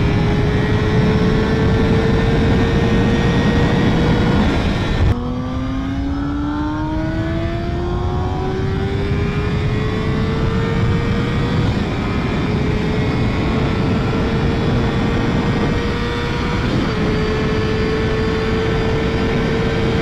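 Yamaha YZF-R6 inline-four engine pulling hard at high revs under a heavy rush of wind noise. About five seconds in, an upshift drops the revs sharply. The pitch then climbs slowly again, with two small dips, as the bike nears top speed.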